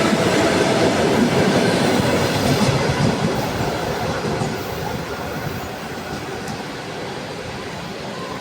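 A train running past the station, its wheel rumble and rail clatter fading steadily as it moves away.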